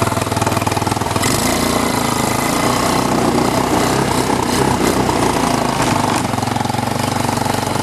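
A 150cc GY6 single-cylinder four-stroke engine running steadily with an even pulsing beat, stepping up a little in speed and noise about a second in.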